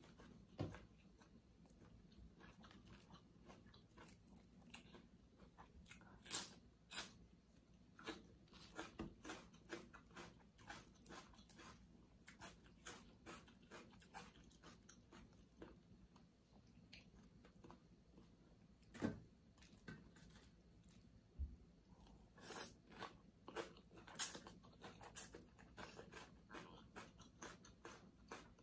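A person chewing and crunching mouthfuls of Thai glass noodle salad with raw vegetables: irregular crisp crunches and clicks, with a few louder crunches.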